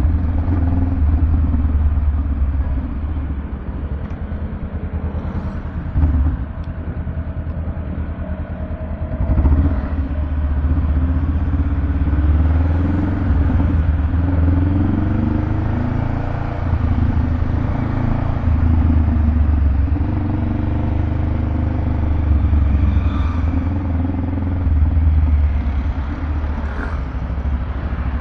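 Honda Rebel 500's parallel-twin engine running through a Vance & Hines aftermarket exhaust, a deep, bassy rumble whose pitch rises and falls, with brief louder surges about six and nine and a half seconds in.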